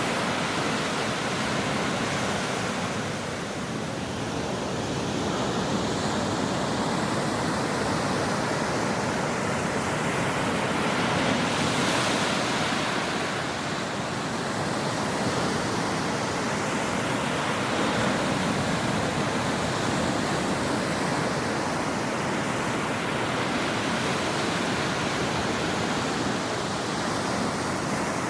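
Ocean waves breaking on a shore: a continuous rushing wash of surf that swells and eases, with one wave crashing more strongly about twelve seconds in.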